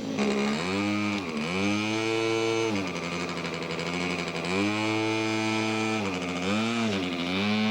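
Model airplane engine running loud, its pitch dipping and rising again several times as the throttle or flight path changes, with a thin high whine over it.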